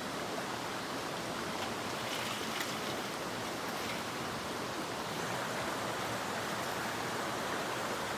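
Mountain stream flowing steadily, an even rushing of water.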